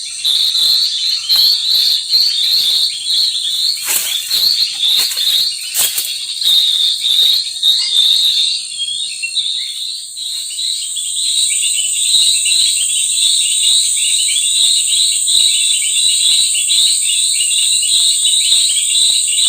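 Rapid, repeated high-pitched bird chirping, with a steady high whine joining about halfway through.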